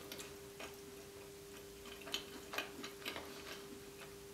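Close-miked mouth sounds of eating a meat pie: soft, irregular clicks and smacks from chewing and licking fingers, over a faint steady hum.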